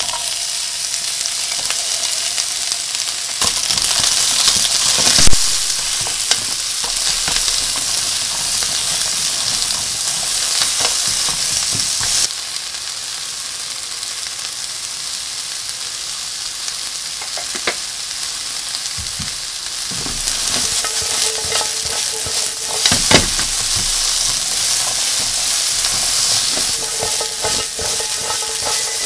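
Sliced onions sizzling in hot oil in a nonstick frying pan, starting abruptly as they are tipped in, with a sharp knock about five seconds in. The sizzle turns quieter about twelve seconds in, and later a spatula stirs the onions around the pan with a few clicks and knocks.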